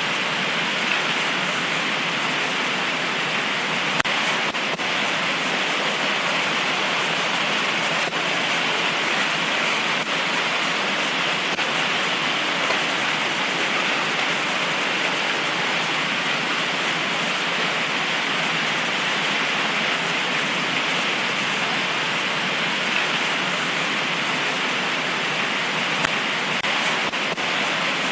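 Heavy tropical rain pouring down in a steady, even hiss, with a few faint sharp ticks of drops.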